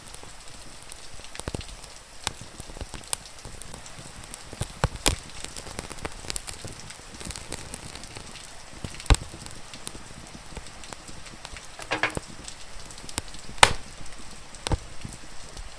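Wood fire crackling and popping at irregular intervals, with two sharp loud pops about nine and thirteen-and-a-half seconds in, over a steady hiss of rain.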